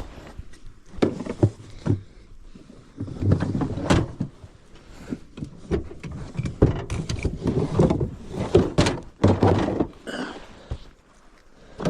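Irregular metallic clinks, knocks and thunks of hand tools being handled and rummaged through in a socket set and toolbox.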